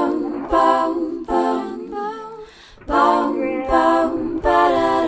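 A young girl's voice singing unaccompanied, a short wordless tune in a string of long held notes, with a brief pause about halfway through.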